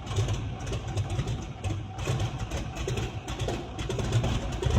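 Helicopter engine and rotor running steadily, a low uneven pulsing drone.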